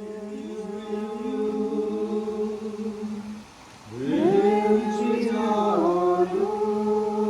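Voices chanting in long held tones over a steady low drone. About four seconds in, a voice sweeps upward and the chanting grows louder.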